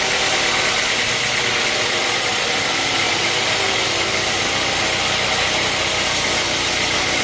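Sawmill machinery running steadily and loudly: an engine-driven saw with an even, unbroken hiss and hum.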